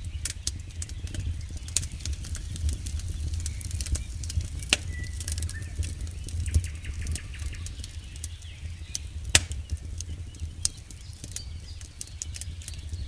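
Campfire burning with a low steady rumble of flame and irregular crackles and pops of burning wood, with a couple of louder snaps about five and nine seconds in.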